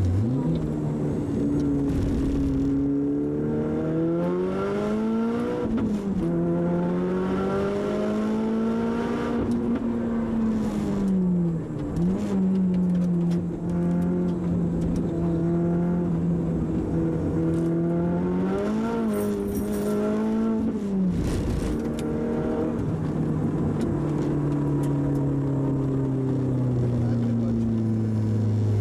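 Tuned Audi TT Quattro's turbocharged four-cylinder, fitted with a Garrett GT30R turbo, heard from inside the cabin while being driven hard. The engine note climbs and falls repeatedly, with a few sudden dips where the revs drop.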